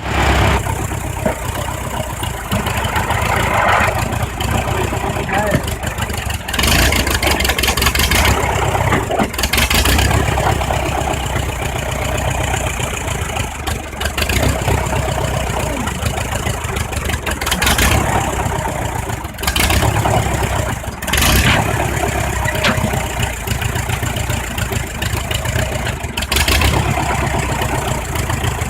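Tractor engine running continuously, with several brief louder surges.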